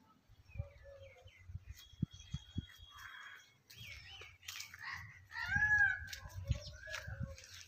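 Several birds chirping and calling in short gliding notes, the loudest call about three quarters of the way in, over low rumble and thumps on the microphone.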